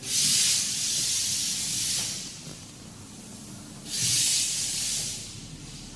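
Two loud bursts of hissing: the first lasts about two seconds, and the second starts about four seconds in and lasts just over a second.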